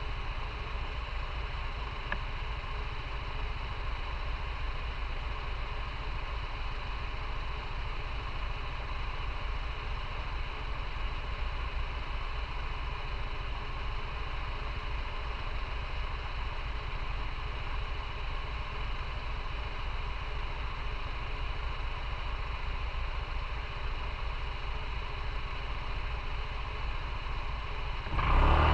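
Motorcycle engine idling steadily with a low, even pulse, then growing suddenly louder just before the end.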